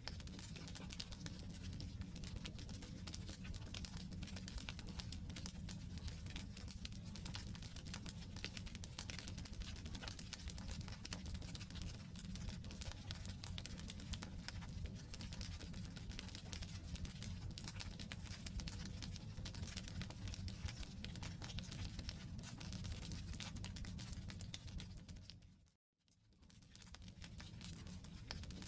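Wood campfire burning, with steady quick crackling and popping over a low rumble of flames. A little before the end it fades out to silence for a moment and fades back in.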